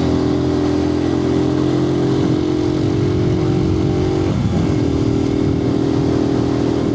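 Single-cylinder engine of a 2012 Suzuki TU250X motorcycle running steadily at cruising speed, heard through a microphone inside the rider's helmet, with wind hiss. About four and a half seconds in, the engine note dips briefly and comes back slightly lower, as at a throttle change or gear shift.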